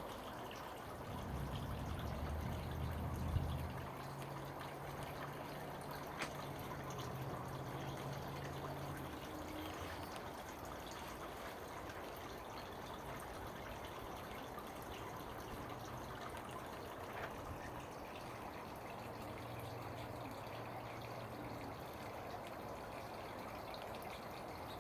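Steady trickling and dripping water at a bird bath. A low hum sits underneath for the first several seconds and again near the end, with a sharp click a few seconds in.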